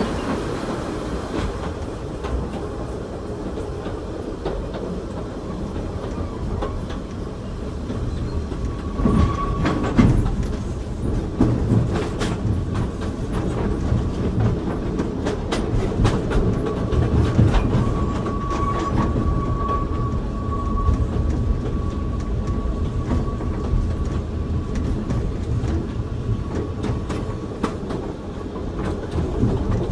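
Inside a passenger car of the Oigawa Railway Ikawa Line's narrow-gauge train on the move: a steady low running rumble with scattered clicks of the wheels over rail joints. From about a third of the way in, a faint thin squeal holds steady.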